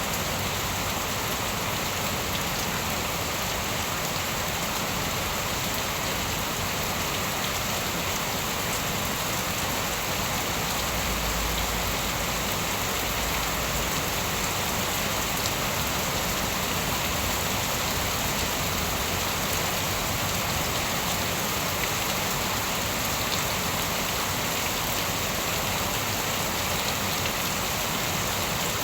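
Steady rain falling, an even hiss of drops, with a brief low rumble about eleven seconds in.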